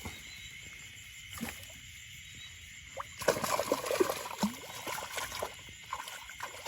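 Water splashing and sloshing in irregular bursts for about three seconds from about three seconds in, over a steady high insect chirring.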